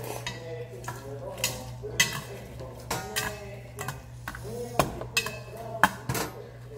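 Utensils clinking and scraping against a bowl of cold buckwheat noodles (makguksu) as they are stirred, with a string of sharp irregular clicks.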